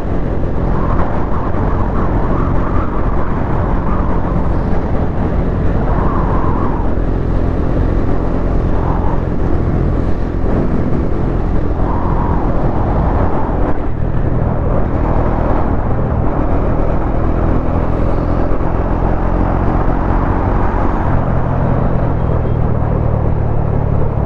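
Bajaj Dominar 400's single-cylinder engine running steadily while riding, heard through wind rush on the helmet microphone; the engine note shifts a couple of times as the rider changes speed.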